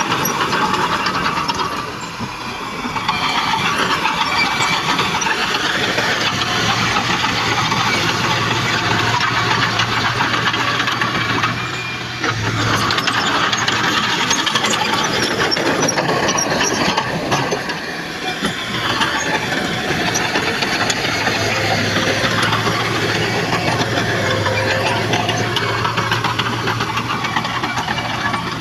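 Heavy diesel earthmoving machinery working: engine running under load with continuous rattling and clanking, easing off briefly a few times.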